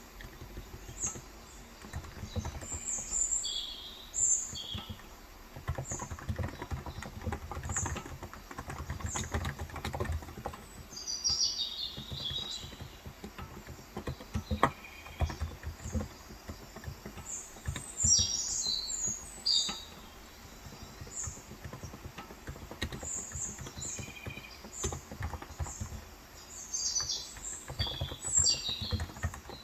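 Typing on a Cox Endeavor electro-capacitive 35 g tenkeyless keyboard: runs of soft keystroke clatter throughout. Small birds chirp outside in several clusters of short high calls.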